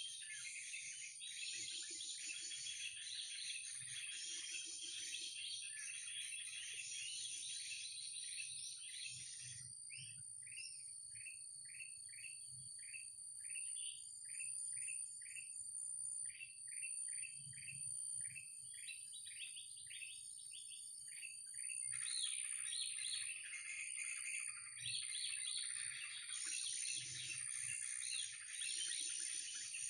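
Birds calling: dense, overlapping high twittering that gives way, for about twelve seconds in the middle, to a run of quick repeated downward-sliding notes, roughly three a second, before the twittering returns. A steady high whine, like an insect, runs underneath.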